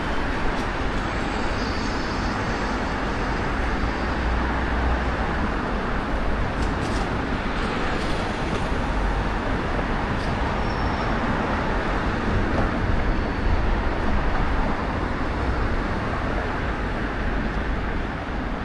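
Strong gusty wind buffeting the microphone, a steady rushing noise with an uneven low rumble, mixed with street traffic noise.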